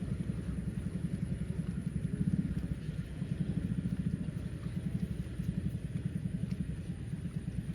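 An engine or motor running steadily, a low, fast, even chugging with no change in speed.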